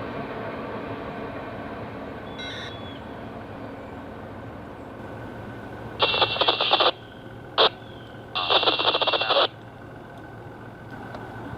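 Rumble of a passing train fading away, then three short buzzy bursts from a railroad scanner radio about six seconds in: a long one, a brief blip, and another long one.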